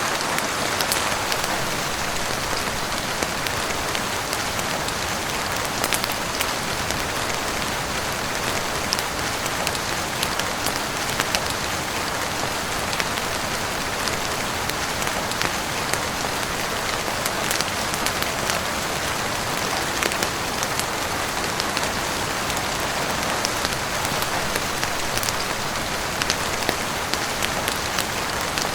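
Heavy rain falling steadily on a roof, with scattered sharp clicks and ticks through the steady hiss.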